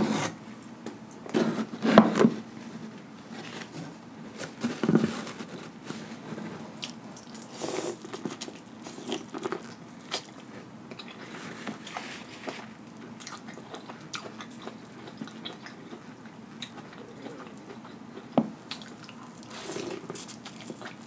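Biting kernels off a corn on the cob and chewing, a string of short irregular clicks. The loudest bites come in the first five seconds; after that the chewing is quieter.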